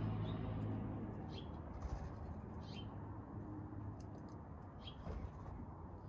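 A songbird chirping: about four short, high notes, each sliding down in pitch, spaced a second or two apart. A low traffic rumble fades out during the first second.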